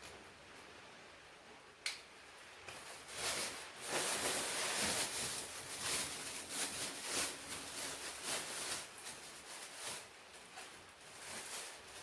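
Plastic grocery packaging being handled and rustled, an uneven crinkling hiss that starts about three seconds in after a single sharp click.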